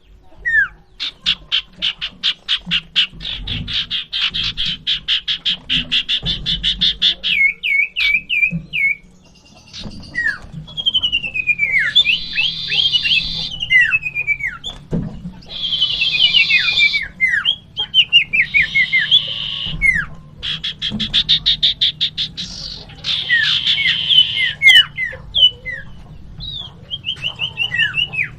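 Common iora (cipoh) giving its aggressive 'fighting' calls: a long fast rattle of ticking notes, then repeated downslurred whistles broken by harsh buzzy rasps.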